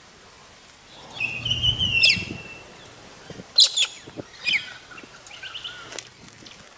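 Birds calling: a drawn-out high call about a second in that ends in a quick downward sweep, then a few short, sharp calls that each sweep downward in pitch.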